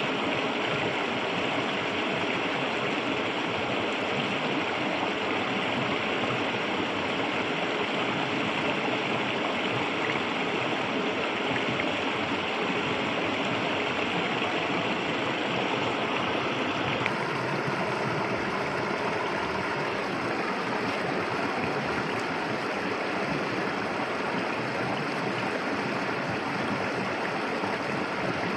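Clear river water flowing steadily. The sound of the water shifts abruptly a little past halfway through.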